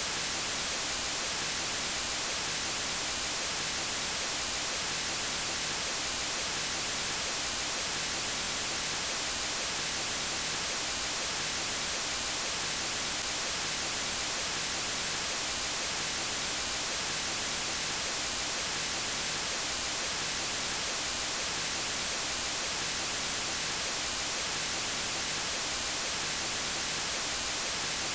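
Steady electronic white noise, even and unchanging, with its hiss strongest in the high frequencies.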